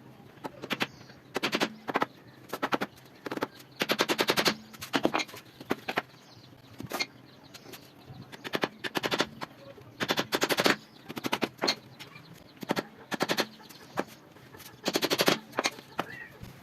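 Rapid clusters of sharp knocks and strokes from hand tools working on wood during cage building. Single knocks alternate with dense runs of about half a second every few seconds.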